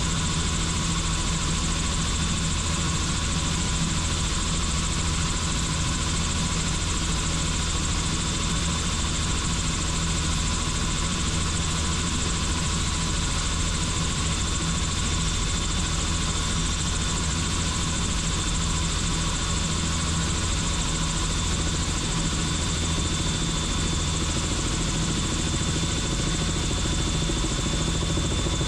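Helicopter in flight: steady engine and rotor noise that holds level and pitch throughout, with a constant high whine over a low drone.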